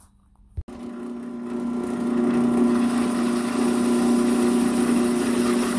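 A power tool's motor running steadily as it cuts the sheet-metal gauge-cluster panel: a strong hum with a second tone above it over a high hiss. It starts suddenly about half a second in and builds for a couple of seconds before holding level.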